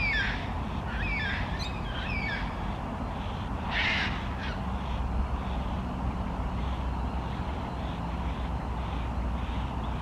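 Yellow-tailed black cockatoos calling: a string of short calls in the first few seconds, a louder call about four seconds in, then fainter repeated calls.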